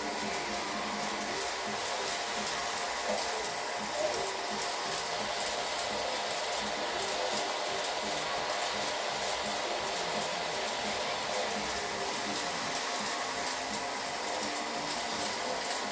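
Train running: a steady whirring, rushing noise with faint steady tones in it and an even level throughout.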